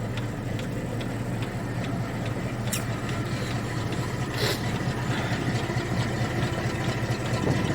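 ZIL-130 truck's V8 petrol engine running steadily with an even low drone, with a couple of brief clicks.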